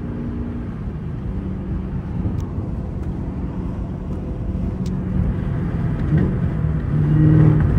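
Chevrolet Camaro ZL1 1LE's supercharged 6.2-litre V8 cruising at highway speed, heard from inside the cabin as a steady low drone over road noise. The drone grows a little louder about seven seconds in.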